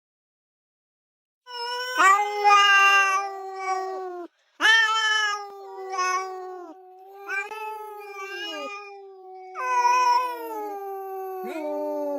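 Cats yowling in long, drawn-out, wavering calls that start about a second and a half in. The calls overlap, with two voices at times sounding together.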